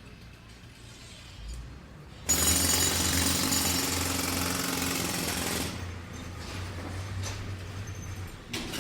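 A jackhammer starts suddenly about two seconds in and breaks ground for about three seconds before stopping, loud over the construction site's background. A low machine hum carries on for a few seconds after it stops.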